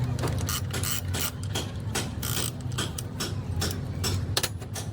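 Irregular metallic clicking and knocking from hand tools working on engine parts, ratchet-like in places, over a steady low hum.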